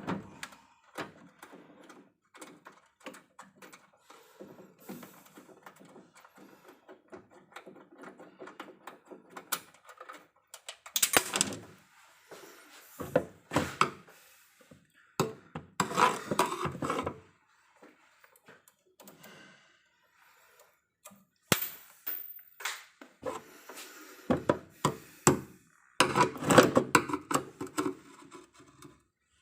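Irregular clicks, knocks and clatter of hand tools and parts being handled during repair work on an electrical distribution panel, with a few louder scraping bursts of a second or so.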